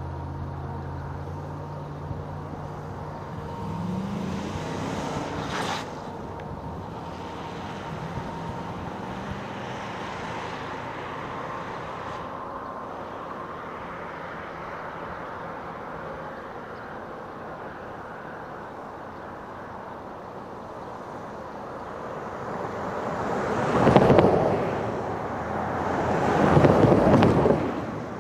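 Diesel locomotive engine running with a low rumble that fades away over the first few seconds, then a steady outdoor background, and two loud rushing swells that rise and fall near the end.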